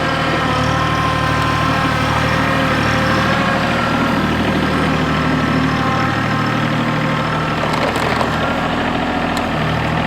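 Branson 2400H subcompact tractor's diesel engine running steadily while the tractor carries a heavy load of concrete pavers on its front forks.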